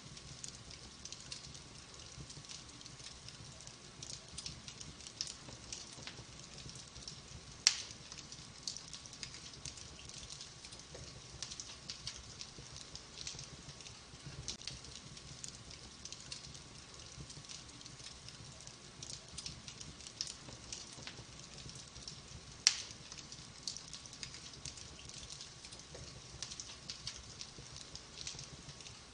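Wood fire crackling in a fireplace: a steady soft hiss under a scatter of small crackles, with two loud sharp pops, one about eight seconds in and one about twenty-three seconds in.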